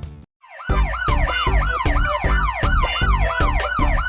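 Cartoon police-car siren sound effect: a fast up-and-down yelp repeating about four times a second over a heavy thumping beat, starting after a brief silence just under a second in.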